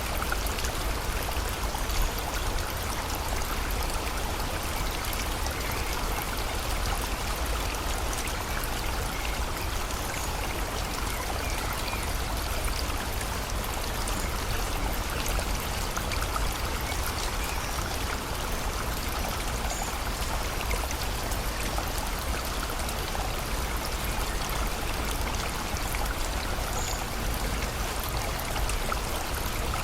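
Rain and a flowing river: a steady, even rush of water with a deep rumble underneath.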